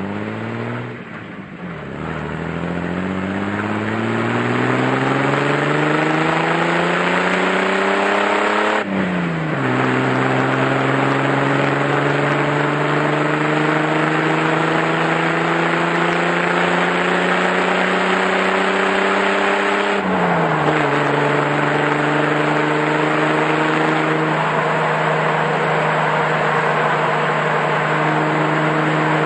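Jeep Wrangler with an aftermarket after-cat exhaust accelerating from low speed. The exhaust note rises through the gears, with upshifts about nine and about twenty seconds in, then settles to a steady cruise.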